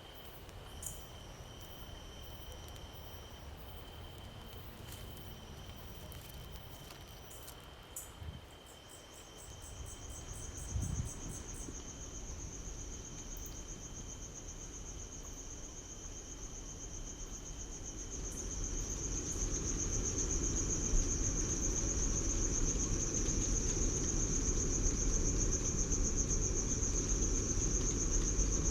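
Insects trilling steadily in a high pitch, with a second, louder trill joining about a third of the way in. A low rumbling noise builds underneath in the last third, with a couple of faint knocks earlier.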